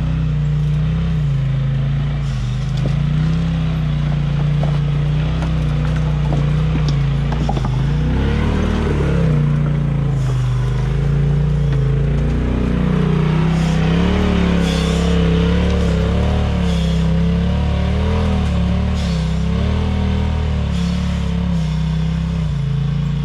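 Side-by-side UTV engine working up a rocky off-road trail, its pitch rising and falling with the throttle, with scattered knocks and scrapes over the first several seconds.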